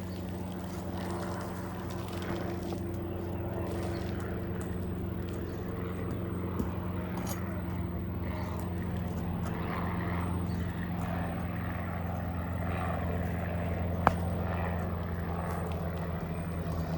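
A steady low engine hum drones on without a break, with faint scraping in the background and one sharp tap about fourteen seconds in.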